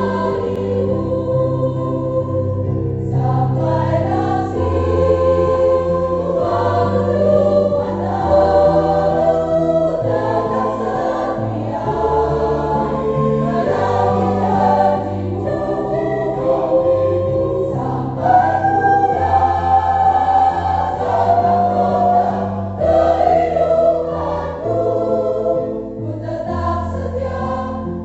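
Church choir singing a hymn in parts, the voices holding long notes over a low accompaniment.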